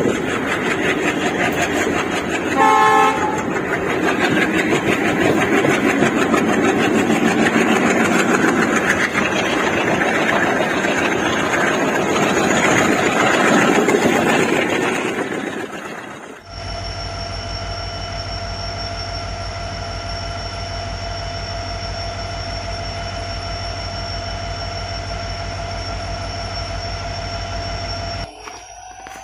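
Diesel-hauled passenger train running, heard from a coach window as a loud, steady rumble of wheels and locomotive, with a short horn toot about three seconds in. About halfway through the train noise cuts off suddenly and is replaced by a steady held tone over a fast, pulsing low throb, which drops in level near the end.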